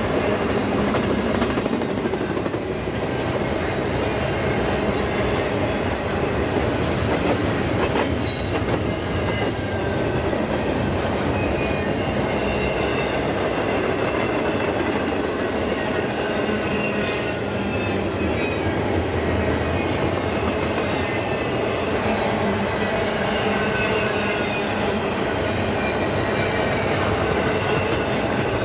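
Empty double-stack container train rolling steadily past, its well cars' wheels rumbling on the rail with occasional sharp clicks and faint, intermittent high wheel squeal as the cars take a curve.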